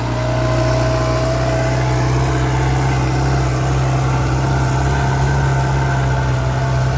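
New Holland 5630 4WD tractor's diesel engine running steadily, with a thin whine over the first two seconds.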